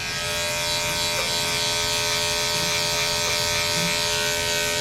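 Electric dog grooming clippers running with a steady buzzing hum while trimming the hair on a dog's ear.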